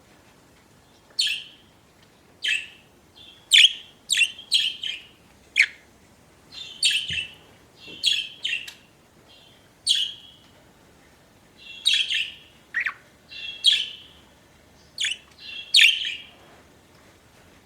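Pet budgerigars chirping: short, sharp high chirps and scratchy notes in an irregular string, about one or two a second, some clustered close together.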